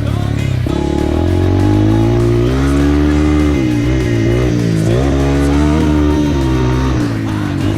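Four-stroke dirt bike engine revving, its pitch rising and falling as the throttle is worked, under background music.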